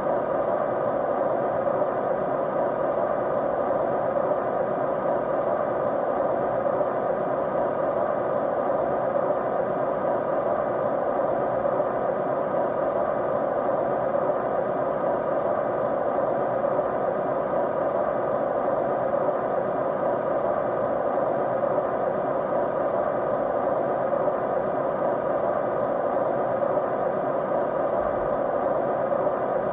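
Steady, unchanging white noise with a hushing character, its energy in the middle range and little high end.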